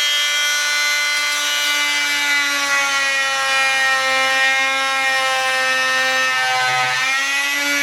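Handheld electric power tool running at full speed, cutting along a marked line in a plastic blast gate; its steady whine sags slowly in pitch under the load and dips briefly near the end.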